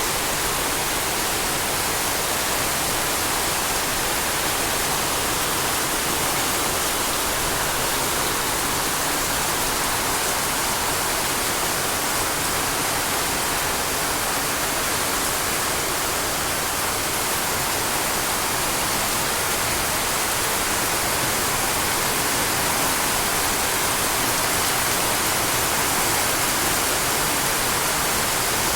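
Heavy rain falling in a steady, even rush with no breaks or changes.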